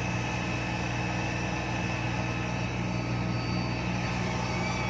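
Epiroc DM45 drill rig's diesel engine running steadily, a constant low drone with a mechanical hum over it.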